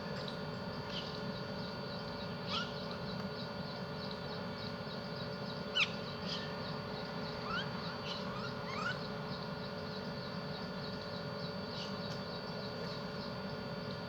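Short bird chirps and whistles, some rising and one louder falling call about six seconds in, over a steady background hum with faint fast ticking.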